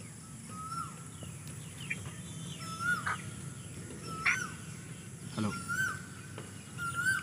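A bird calling over and over, short chirps that rise then drop, roughly one a second, over a low steady background noise.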